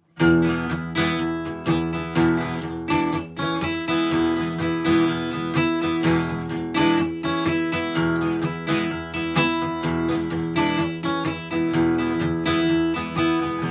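Acoustic guitar strumming the instrumental introduction to a folk song, with steady rhythmic chord strokes.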